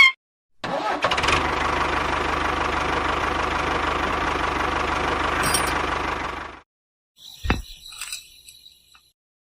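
A small motor running steadily for about six seconds, starting and cutting off abruptly, followed by a few faint clicks.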